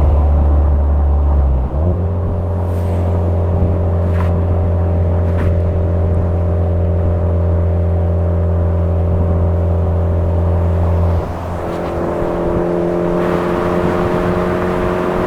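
Suzuki Swift Sport ZC33S's 1.4-litre turbo four-cylinder through a Fujitsubo aftermarket muffler, droning steadily at cruise. The note shifts about two seconds in, drops about eleven seconds in, then climbs slowly in pitch.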